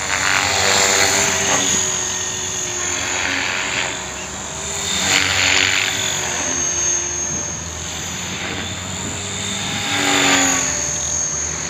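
Electric RC helicopter with an E-Sky motor in flight: steady rotor-blade noise over a high motor whine, swelling louder and fading a few times as it manoeuvres.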